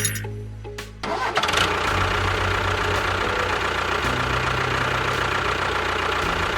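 A tractor engine starts about a second in and then runs steadily, its low hum stepping up in pitch partway through. Brief music-like tones come before it.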